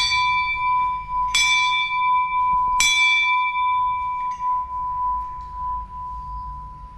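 Temple bell struck three times, about a second and a half apart, each stroke a bright ringing tone that hangs on and slowly dies away.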